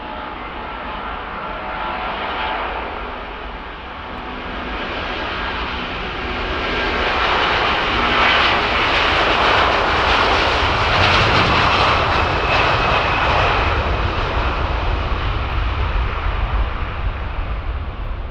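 Airbus A330-200's twin Rolls-Royce Trent turbofans at takeoff power as the airliner departs, swelling to its loudest about halfway through with a whine on top and a deep rumble that carries on to the end.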